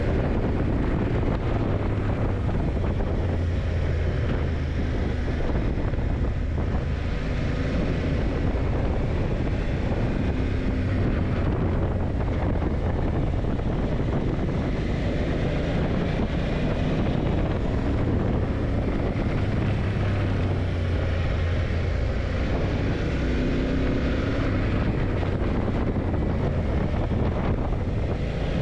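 Yamaha TDM900 motorcycle's parallel-twin engine running under way, its note rising and falling with the throttle, mixed with wind noise on the microphone.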